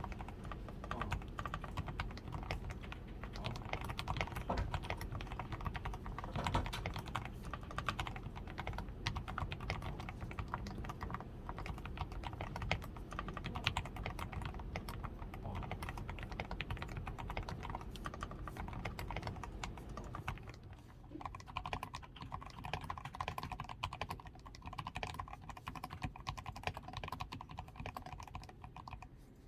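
Continuous typing on a DAREU A87 Pro 87-key mechanical keyboard, fully lubed with Krytox 105, with PCB tape mod, switch films, lubed stabilizers and XDA keycaps: a dense, unbroken stream of keystrokes.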